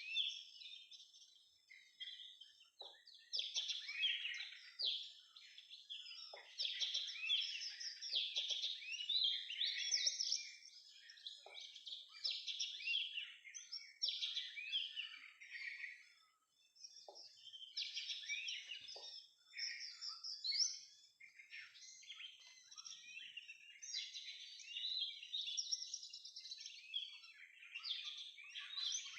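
Oriental magpie-robins calling and singing, a dense run of chirps and whistles with a short lull about halfway through.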